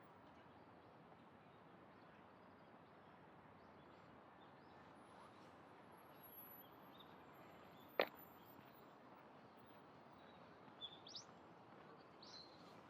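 Faint, steady city background noise, with one sharp click about eight seconds in and a few short high chirps near the end.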